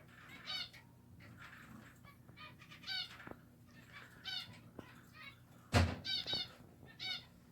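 Caged pet finches calling, a series of short nasal chirps every second or so, some in quick pairs. About six seconds in there is a single sharp knock, the loudest sound.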